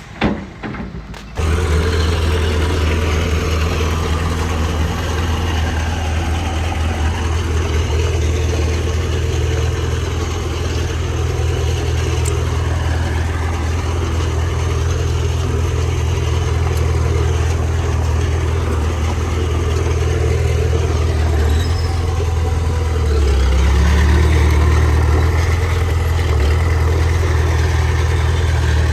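Heavy diesel earthmoving engine running steadily with a deep drone. It comes in abruptly just over a second in and gets louder about 23 seconds in.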